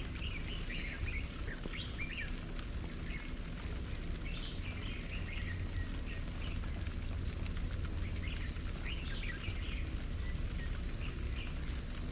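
Small birds chirping in quick clusters of short notes, in bursts at the start, about four seconds in, around eight to nine and a half seconds, and near the end, over a steady low rumble.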